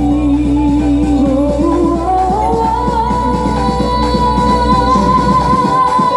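Loud dance music played through a large carnival sound system, with heavy bass and a high sung melody line that climbs about two seconds in and is then held. The deep bass drops out near the end.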